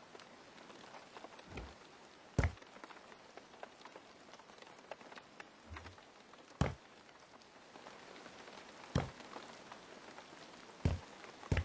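Light rain pattering, with a handful of separate soft thuds spaced a second or more apart.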